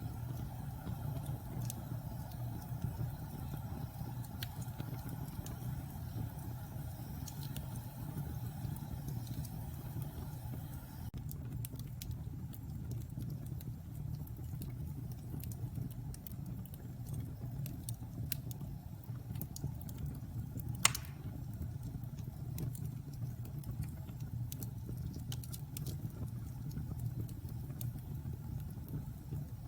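Wood fire burning in a fireplace: a steady low rumble with scattered small crackles, and one sharp pop about two-thirds of the way through.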